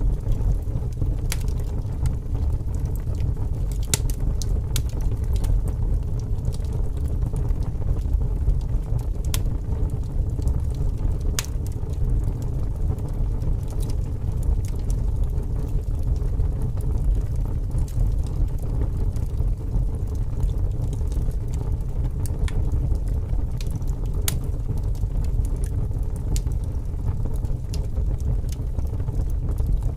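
Wood fire burning in wind: scattered sharp crackles and pops over a steady low rumble.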